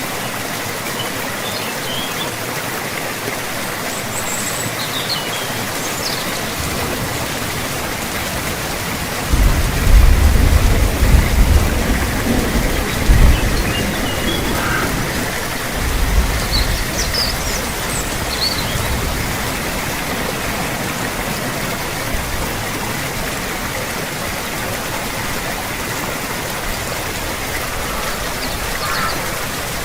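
Steady rain falling, an even hiss, with a deep roll of thunder rumbling for about five seconds a third of the way in and a smaller rumble just after.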